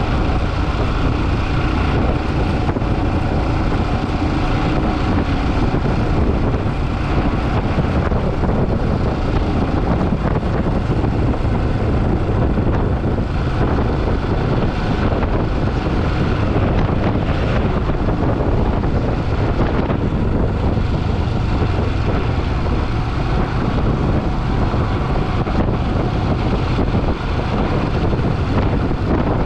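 Motorcycle on the move: a steady engine note under loud wind rushing over the microphone.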